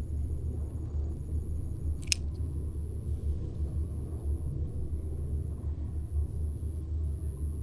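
Campfire being lit: a steady low rumble with a single sharp crackle about two seconds in.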